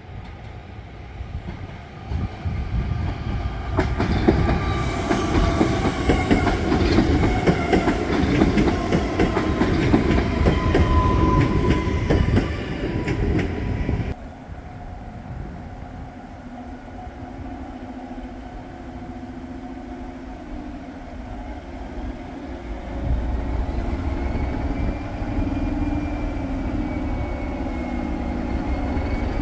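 A passenger electric multiple unit passing a level crossing, its wheels clicking over the rail joints, loudest from about four to fourteen seconds in. After a sudden cut, a diesel locomotive's engine runs steadily as it rolls into a station, getting louder near the end.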